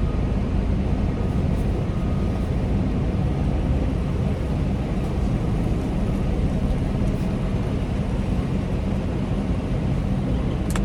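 Semi truck's diesel engine running steadily at low revs while the rig backs slowly, heard from inside the cab as a constant deep rumble.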